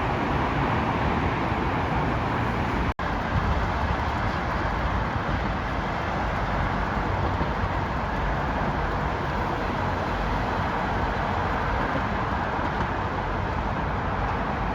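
Steady rushing noise of a train running, with a low rumble under it and a momentary dropout about three seconds in.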